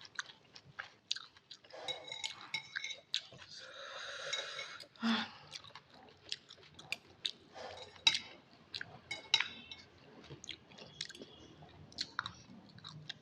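Close-up chewing of instant noodles: wet mouth clicks and smacks at an irregular pace, with a few brief breathy smears.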